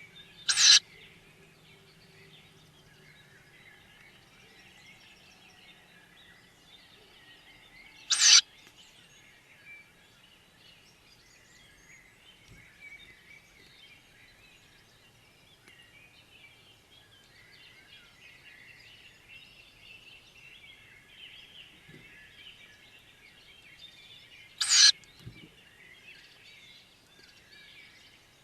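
Tawny owl chicks in the nest box giving three short, hoarse, hissing begging calls, spaced several seconds apart, over faint birdsong from outside the box.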